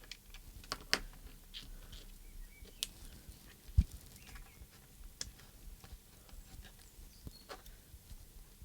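Scattered small clicks and taps of a RadioMaster Zorro transmitter's plastic case and buttons being handled and fitted back together, with one dull thump a little under four seconds in.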